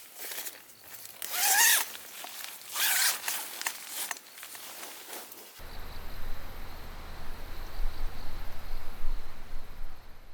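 A zipper pulled in two quick strokes about a second and a half apart. About halfway through, the sound changes to a steady low rumble with an even hiss.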